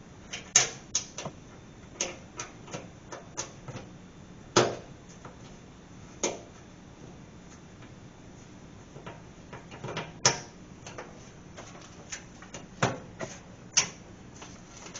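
Irregular clicks and knocks of a plastic engine splash shield being fitted to the underside of a Honda Civic, hooked in place and its fasteners handled and started by hand, with a few louder knocks among lighter ticks.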